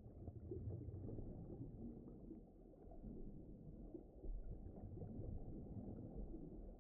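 Low, muffled rumbling ambience that swells and fades, with no sharp sounds and nothing high-pitched in it.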